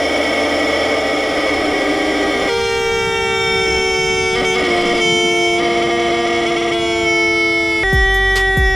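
Two giant rubber screaming chickens squeezed together, giving a loud, reedy, horn-like scream. It starts rough and jangling, then settles into two long held notes at slightly different pitches. The pitch sags as the air runs out, and a fresh squeeze starts the notes again near the end.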